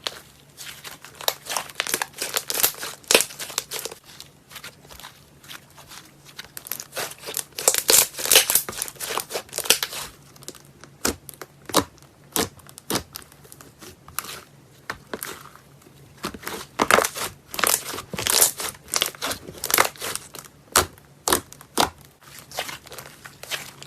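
Slime being squeezed and poked by hand, giving crisp crackles and pops that come in dense runs with sparser pops between.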